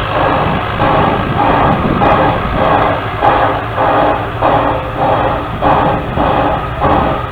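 Steam locomotive exhaust chuffing in a steady, even rhythm of about two and a half beats a second, over a low rumble of the running train.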